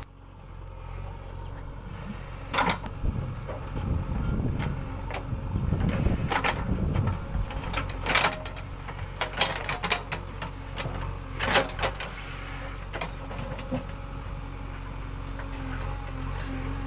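A JCB backhoe loader's diesel engine runs steadily, with sharp knocks and clanks from the machine: one a few seconds in, a cluster about halfway through, and another shortly after.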